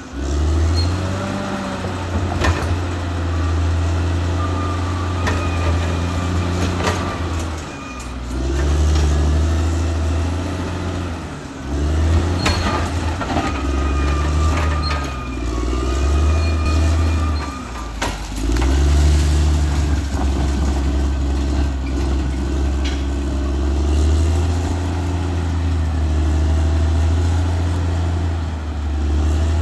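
Caterpillar D6R XL bulldozer's diesel engine working, its pitch dipping and recovering several times. Occasional sharp clanks and a thin wavering squeal ride over the engine.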